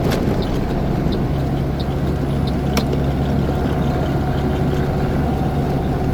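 Heavy truck's diesel engine running steadily while driving, heard from inside the cab as a continuous low drone. Two sharp clicks cut through it, one at the very start and one just under three seconds in.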